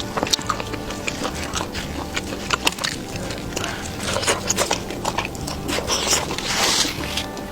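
Close-up crunching bites and chewing of crispy deep-fried skewered food, a dense run of crackles with a louder crunch about six seconds in. Soft background music underneath.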